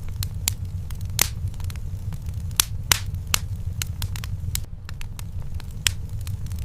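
Wood fire crackling in a fireplace: irregular sharp pops and snaps, a few louder ones standing out, over a steady low rumble.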